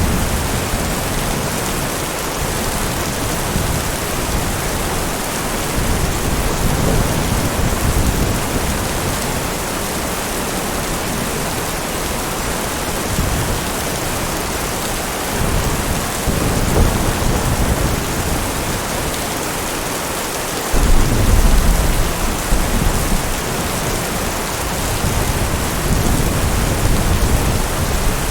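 Heavy steady rain hissing, with several low rolls of thunder; the loudest rumble starts suddenly about three-quarters of the way through and lasts a couple of seconds.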